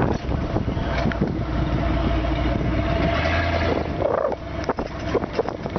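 Steady low rumble of a passing vehicle mixed with wind buffeting the microphone, easing off about four seconds in, with a few clicks and knocks near the end.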